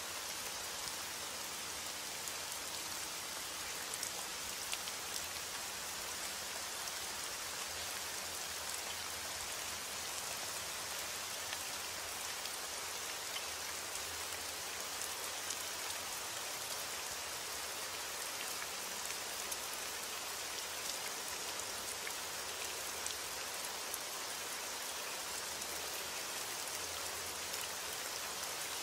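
Steady rain: a constant hiss with many fine, scattered drop ticks.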